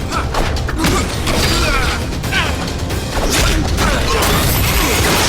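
Fight-scene soundtrack: background music under a rapid series of punch, smash and impact sound effects with whooshes.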